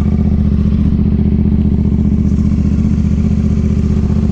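Motorcycle engine idling steadily just after a start, warming up.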